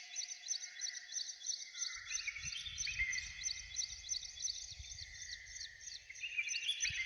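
Several birds singing together in a morning chorus: a steady stream of rapid high chirps over clearer whistled phrases that slide in pitch. A low rumble comes in about two seconds in.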